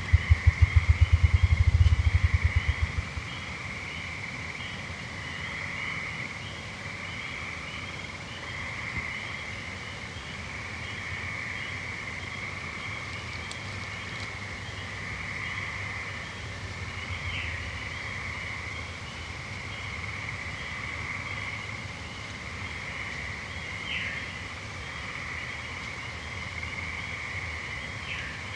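A chorus of gray treefrogs trilling steadily. A run of low, loud thumps speeds up into a whir and stops about three seconds in. A bird gives a short falling note three times in the second half.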